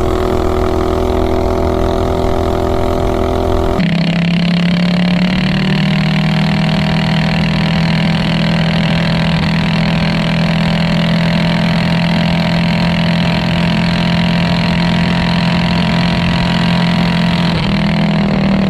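Minibike's 420cc Predator single-cylinder engine, on an open header pipe, running hard and holding steady revs on a top-speed run. About four seconds in the sound shifts abruptly to a steady high-speed note with heavy wind rush over it.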